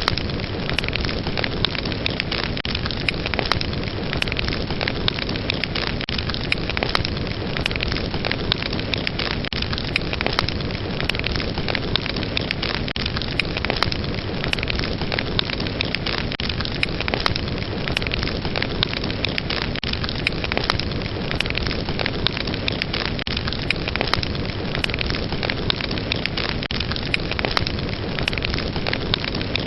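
Fireplace fire burning steadily, a dense rushing hiss thick with many small crackles and pops.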